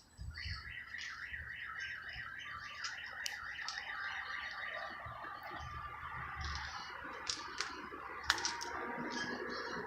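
A chorus of frogs calling after rain: rapid pulsing calls, about three to four a second at first, thickening after a few seconds into a dense overlapping chorus with a few sharp clicks.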